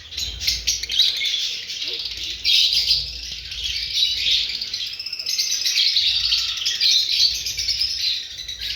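Lovebirds chirping in a continuous, dense chatter of high calls with no break.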